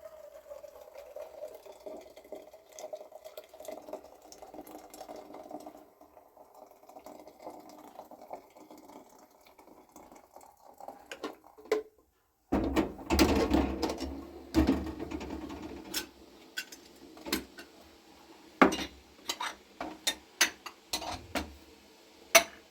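Dishes and cutlery being washed by hand: water running or pouring, then louder clattering and a series of sharp clinks of crockery and metal after a sudden break about halfway.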